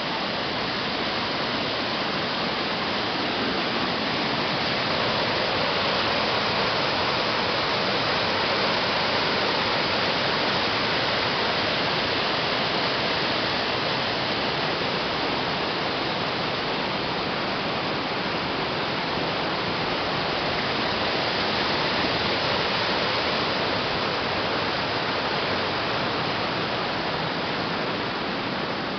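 Waterfall pouring, a steady, dense rush of falling water.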